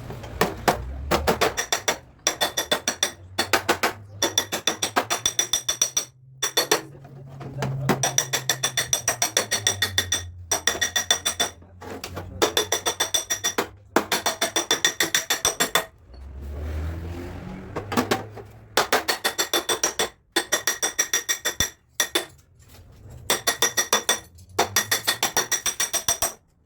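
Hammer tapping on a steel car fender, quick runs of about five or six blows a second broken by short pauses, each blow ringing metallically: metal being beaten smooth.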